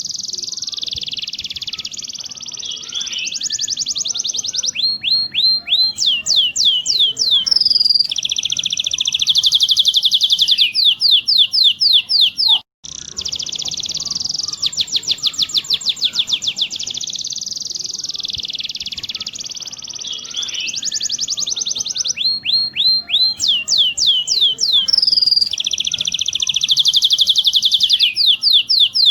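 Domestic canary singing a long song of fast rolling trills and quick runs of repeated sweeping notes, played as a training recording for teaching young canaries to roll. About thirteen seconds in the song breaks off briefly and the same sequence starts again.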